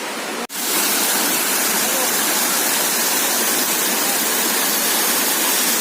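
Dassam Falls waterfall: a steady rush of falling water. It breaks off for an instant about half a second in and comes back louder.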